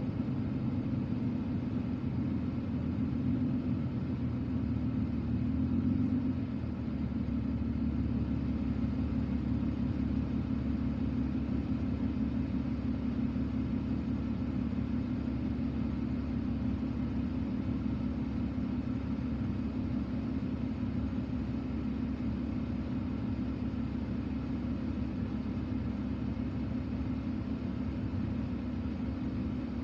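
Car engine and low rumble heard from inside the cabin, running steadily; about six seconds in the sound eases slightly as the car comes to rest, and it then idles steadily while stopped at a red light.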